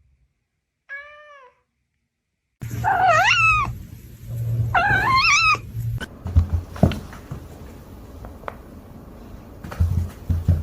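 A cat meowing: one short meow about a second in, then two loud, drawn-out meows with wavering pitch. Scattered knocks and bumps follow.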